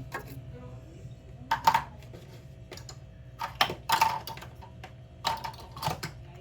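Small containers and packages being picked up and set down, making irregular clusters of sharp clicks and knocks.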